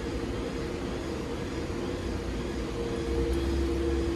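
Steady mechanical hum with two constant tones over a low rumble, growing a little louder and deeper about three seconds in.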